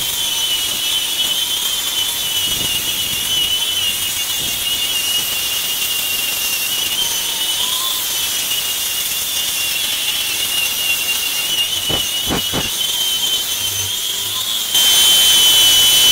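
Angle grinder fitted with a flap disc running steadily as it sands down wooden deck boards: a high whine over a grinding hiss, the pitch sagging briefly under load about halfway through. It gets louder in the last second or so.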